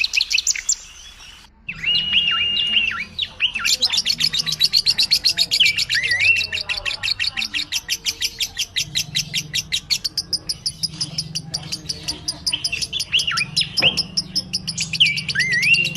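Caged budgerigars chirping and chattering: whistled rising and falling calls over a fast run of repeated chirps, about ten a second, after a brief break about a second and a half in.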